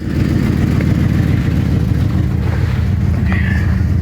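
1975 Ford Thunderbird's V8 idling with a steady, deep rumble, loud through an exhaust that needs replacing.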